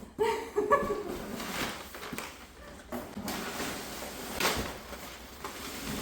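Cardboard packaging being handled and slid open, with irregular scraping and rustling strokes, the clearest about four and a half seconds in. A few brief pitched sounds come in the first second.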